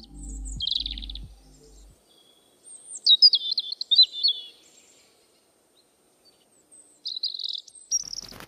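High, thin bird chirps and twitters in several short bouts. A bass-heavy music beat fades out during the first two seconds, and the music comes back in near the end.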